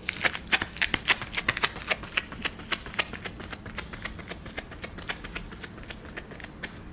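Running footsteps in a hill sprint: quick, sharp foot strikes, about four or five a second, growing steadily fainter as the runner moves away.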